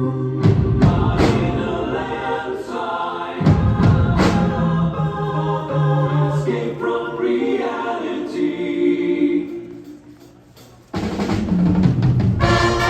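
Winds and percussion ensemble playing: sustained chords punctuated by drum hits about half a second and three and a half seconds in. The music dies away around ten seconds in, then the full ensemble comes back in loudly about a second later.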